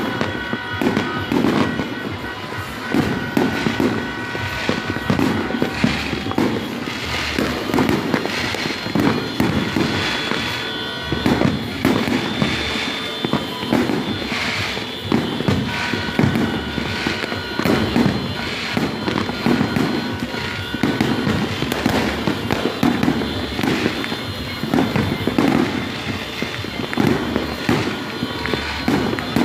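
New Year fireworks and firecrackers going off in a dense, unbroken barrage, several bangs a second with no pause.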